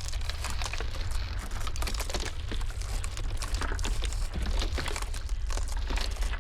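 Iceberg ice crackling in a dense, irregular run of small sharp cracks, over a steady low rumble of blizzard wind.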